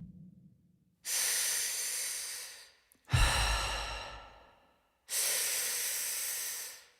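Amplified heavy breathing, as a sound effect in a stage performance's intro: two long drawn-in breaths, each followed by a breath out that starts with a low bass thump and fades.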